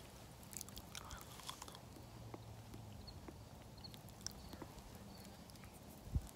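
Someone chewing a soft, fire-roasted sweet potato: faint mouth sounds and small clicks. A single thump near the end.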